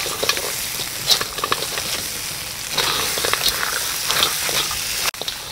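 Crab pieces frying in a wok, sizzling steadily while a plastic spatula stirs them, scraping and clicking against the pan.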